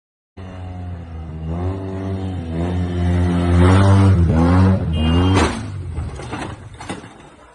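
Road vehicle's engine accelerating, its pitch climbing and dropping several times as it goes up through the gears. Then a few sharp knocks or bangs about five and a half seconds in, after which the sound dies away.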